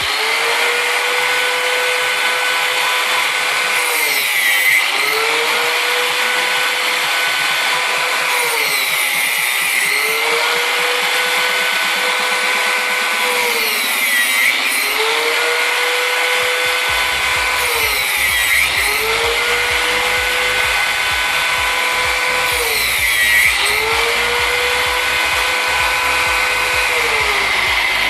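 Angle grinder running steadily with a high whine, its pitch dipping briefly and recovering about every five seconds, with background music underneath.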